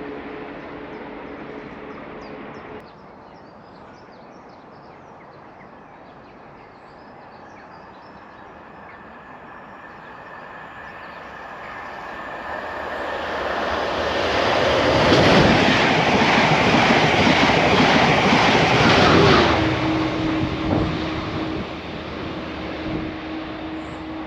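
A diesel passenger train passing through at speed: a rushing rail noise builds up, is loudest from about fifteen to nineteen seconds in, then eases off, leaving a steady droning tone as the train draws away.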